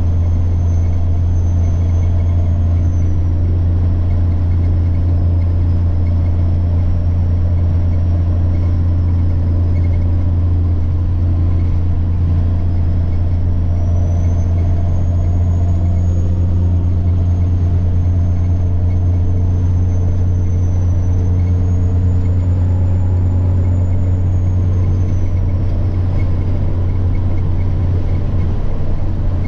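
Semi-truck diesel engine droning steadily while driving, with a thin, high turbocharger whine above it that drifts slowly up and down in pitch, rising about halfway through and again a little later, then fading away near the end.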